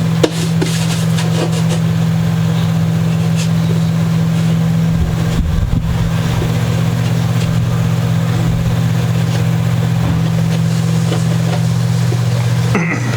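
A steady, loud low hum throughout, with a few faint clicks and a brief low rumble about five seconds in.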